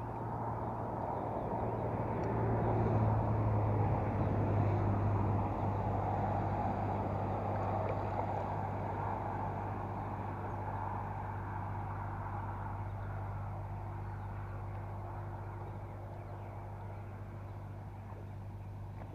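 A motorboat's outboard engine going by on the lake: a steady low hum that grows louder over the first few seconds and then slowly fades. It cuts off suddenly at the end.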